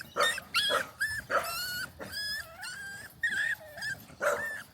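Litter of young Staffordshire Bull Terrier puppies whimpering and squealing: a rapid string of short, high-pitched cries, one after another.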